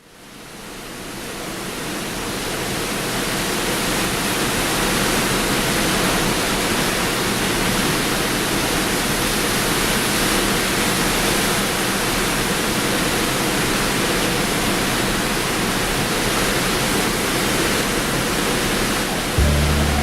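Steady rushing noise of storm wind and lake surf, fading in over the first few seconds from silence; a low hum starts near the end.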